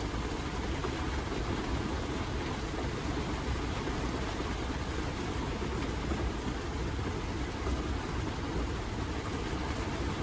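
Heavy rain pouring down on a camper's roof, heard from inside as a steady, dense noise.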